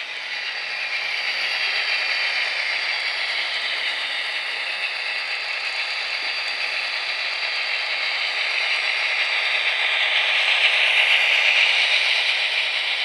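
HO-scale model train running on the layout: a steady rattling hiss from the train on the track that slowly grows louder and is loudest near the end.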